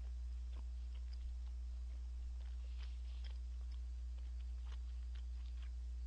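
A person chewing a mouthful of food with the mouth closed: faint, scattered soft clicks. Under it runs a steady low electrical hum.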